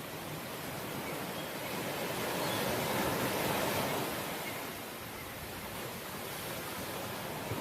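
Ocean waves breaking on the shore, one wave swelling up about three seconds in and washing back out.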